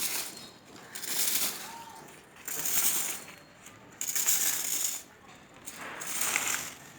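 Leaf rake dragged through dry fallen leaves on grass, about five rustling, crackling strokes, one every second and a half or so.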